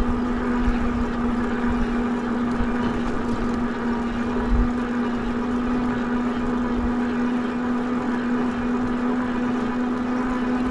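An e-bike's electric motor running under power with a steady, even whine, over a constant rush of wind and road noise.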